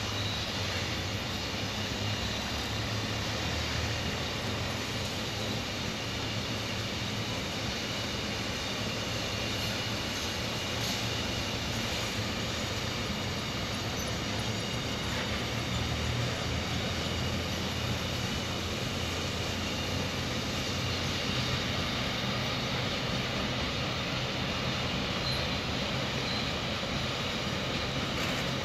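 Container freight wagons rolling past close by: a steady, unbroken rumble of steel wheels on the rails.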